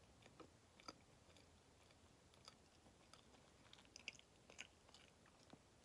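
Faint close-up chewing of a Kamome no Tamago, a soft chocolate-coated cake with a white bean-paste filling: scattered small wet mouth clicks.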